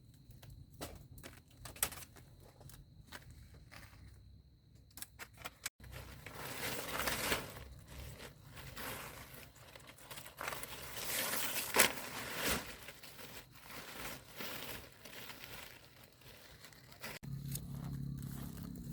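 Plastic tarpaulin sheeting being handled, crinkling and rustling, with scattered clicks in the first few seconds and denser, louder crackling from about six seconds in.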